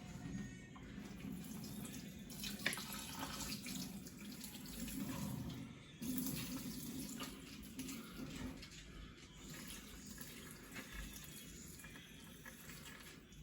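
Water running and splashing as it is poured into a terrarium tank to flood the soil, with one sharp knock about two and a half seconds in.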